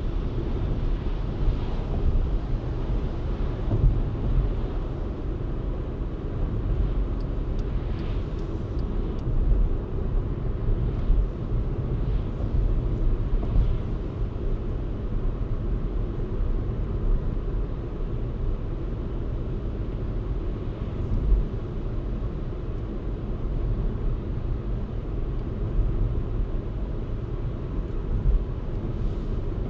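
A car driving along, a steady low rumble of engine and tyre noise that swells and eases slightly.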